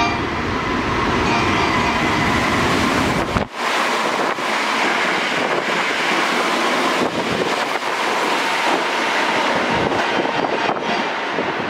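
Hankyu electric train running through a station at speed without stopping: steady rolling, wheel-on-rail noise. About three and a half seconds in, the deep rumble cuts out abruptly and a higher rushing noise carries on.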